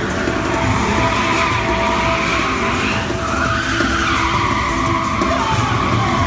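Stunt car tyres squealing in a long sustained skid over engine noise. The squeal wavers up and down in pitch and dips briefly about three seconds in.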